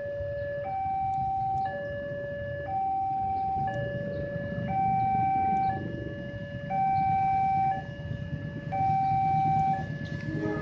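Two-tone hi-lo siren alternating steadily between a lower and a higher pitch, each held about a second, over a steady low rumble.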